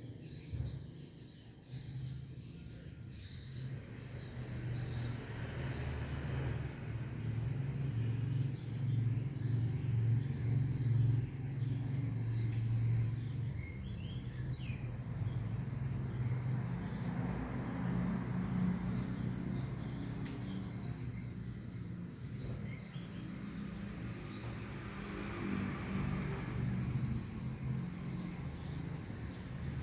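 A low steady rumble, like an engine or traffic, with faint bird chirps over it.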